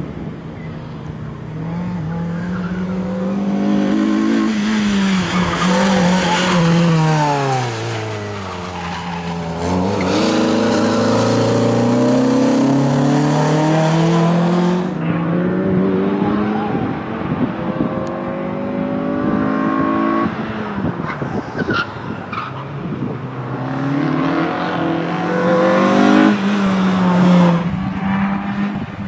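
Renault Clio hatchback's engine revving hard on a timed run, its note climbing and dropping again and again as the car accelerates, brakes and changes gear, with tyres squealing in places through the corners.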